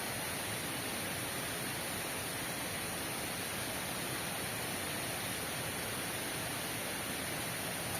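Steady heavy rain falling: an even, unbroken hiss with no separate knocks or tones.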